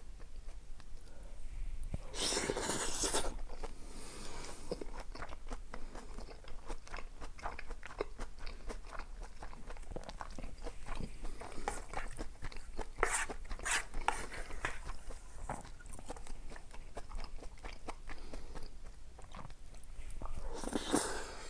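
Close-miked eating: a person chewing and biting food, with many small mouth clicks and two louder stretches, about two seconds in and near the end.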